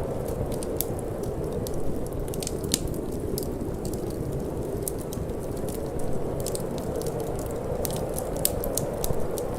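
Wood fire in a fireplace crackling, with many irregular sharp pops and snaps, over a steady low rush of wind.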